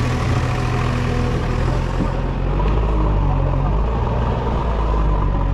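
JCB 3DX backhoe loader's diesel engine running steadily with a deep, even drone.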